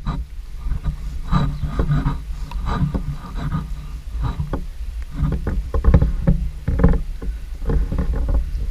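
Rubber boots wading through shin-deep floodwater, each stride a sloshing splash, irregular about once or twice a second, over a steady low rumble.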